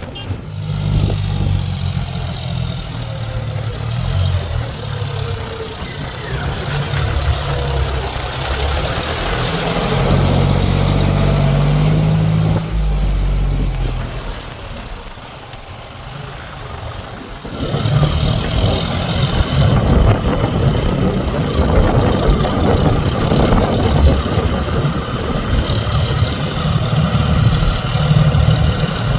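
Diesel engine of a JCB 3DX backhoe loader working, its pitch and load rising and falling as it digs and loads mud. It eases off for a few seconds past the middle, then comes back louder and rougher.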